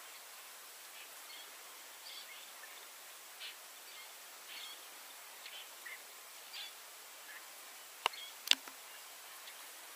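Faint outdoor bush ambience: a steady hiss with short, high bird chirps scattered through it. About eight seconds in, two sharp clicks come close together, the second the louder.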